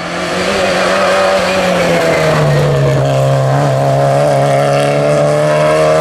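Historic rally car's engine running loud on a stage: its note falls over the first couple of seconds, holds steady, then starts climbing again near the end.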